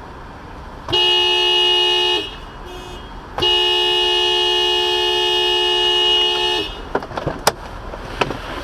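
Car horn honking twice, two notes sounding together: a blast of about a second, then a long one of about three seconds.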